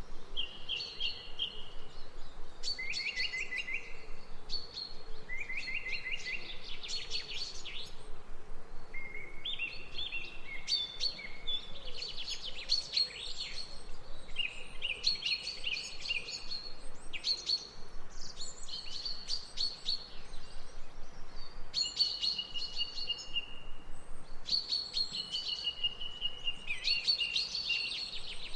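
Songbirds singing, with short trilled phrases of rapid repeated notes following one another without pause, some overlapping as if from more than one bird, over a faint steady outdoor background.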